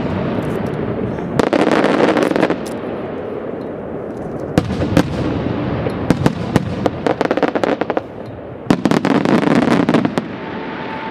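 Aerial fireworks bursting in four volleys of sharp bangs and crackling, each lasting a second or so, with a continuous rumble of further bursts in between.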